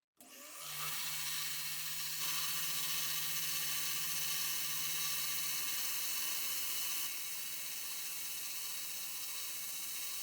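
Small electric power tool running steadily, a constant motor whir under a hiss of working on the part, briefly cut at the start and with slight jumps in level about two and seven seconds in.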